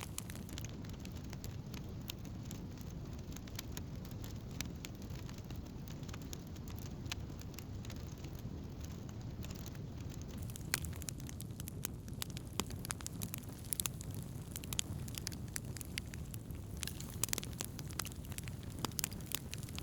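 Wood campfire burning: a steady low rush of flame with frequent sharp crackles and pops, which come more often in the second half.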